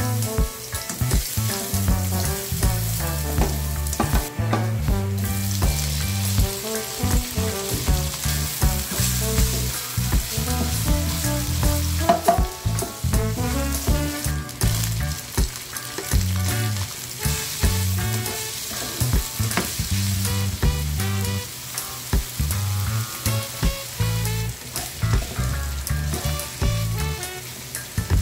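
Garlic, diced meat and green peas sizzling in oil in a nonstick wok, stirred and scraped with a plastic spatula. Background music with a steady bass runs underneath.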